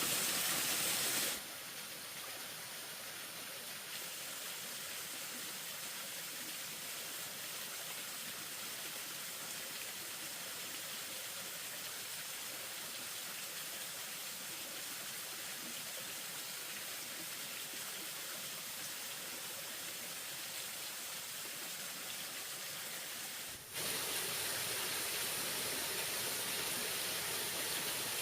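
Steady rushing noise of running water. It drops abruptly to a quieter level about a second in and jumps back up abruptly near the end.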